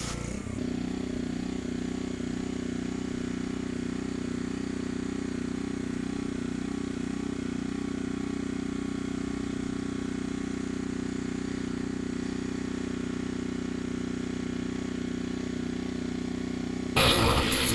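Pressure washer's engine running steadily, with the spray gun off. About a second before the end the water jet starts again with a loud hiss.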